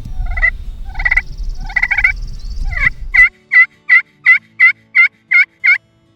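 Turkey yelping: a few yelps over a low rumble, then, after the rumble cuts off a little past three seconds, a fast, evenly spaced run of about nine loud yelps, about three a second.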